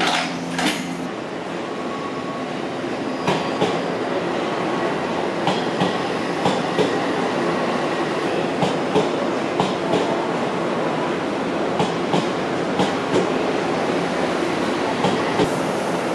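Odakyu Line electric express train pulling slowly into the station, a steady rumble with its wheels clacking over rail joints in quick pairs every half second or so.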